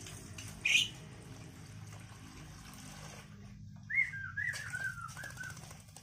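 A small dark bird bathing in a shallow basin of water, splashing and flapping its wings, with a brief loud splash under a second in as water is poured in. About four seconds in, a bird gives a quick run of chirps that step down in pitch.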